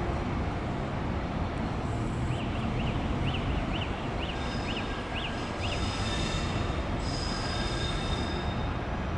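Intercity train led by an E414 electric locomotive rolling slowly over station points, with a steady low rumble. From about halfway through, the wheels squeal in several steady high tones.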